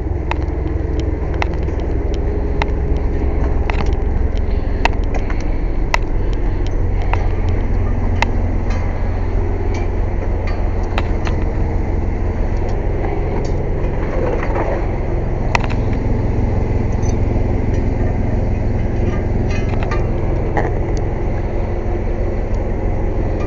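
Air compressor running loudly with a steady low drone, with light clicks and metal clinks over it.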